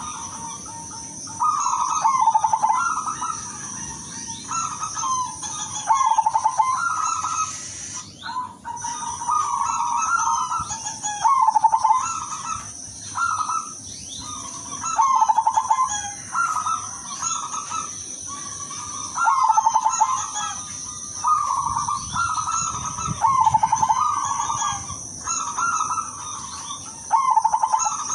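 Zebra dove (perkutut, silver variety) cooing over and over in short trilled phrases, one every second or two, with a steady high-pitched drone in the background.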